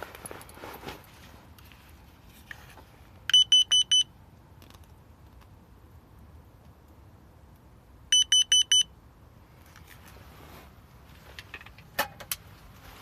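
Electronic alarm beeping: two bursts of four quick high beeps, about five seconds apart.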